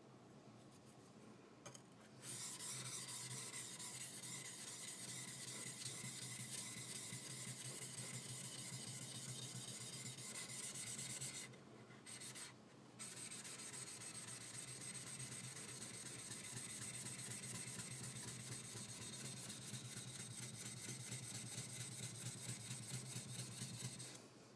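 High-speed-steel skiving knife blade being rubbed back and forth on a wet whetstone, a steady gritty scraping that pauses briefly about halfway through and then carries on.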